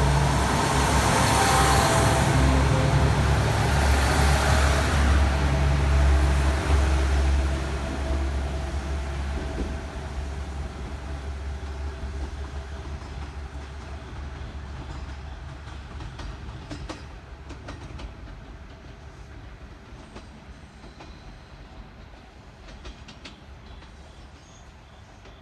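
Train running, with a loud rumble for the first several seconds that then fades steadily as it moves away. Faint clicks of wheels over rail joints come through in the later seconds.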